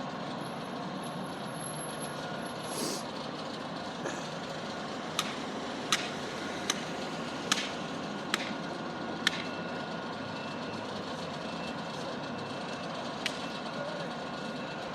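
Steady background rumble of street traffic and idling trucks, with a run of about six sharp knocks, each under a second apart, in the middle and one more near the end.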